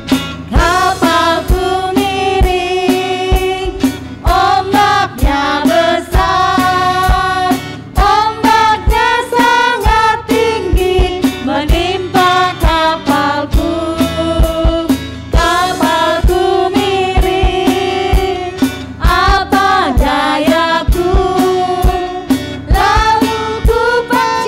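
Children's worship song sung over a band accompaniment with a steady drum beat.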